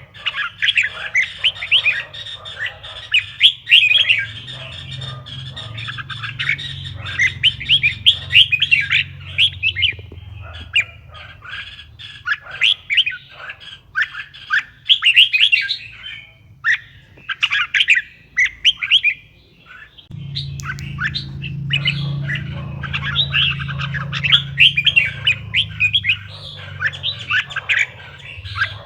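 Red-whiskered bulbul song: a fast, continuous run of sharp chirps and warbled phrases, with a short break about two-thirds of the way through. A low steady hum runs underneath and gets louder about two-thirds in.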